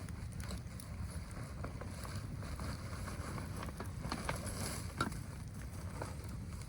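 Steady low rumble of wind buffeting the microphone, with scattered faint crackles and clicks and one sharper click about five seconds in.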